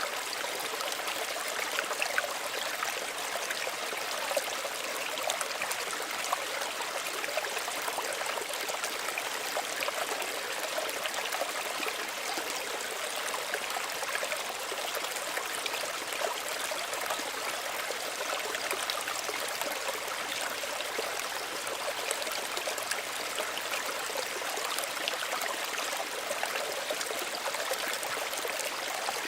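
Small stream running steadily over stones, an even rushing with many small splashes and trickles.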